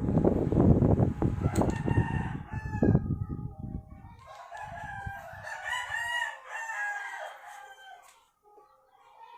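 A rooster crowing: one long crow about four seconds in, lasting roughly three seconds. It is preceded by low, rumbling noise.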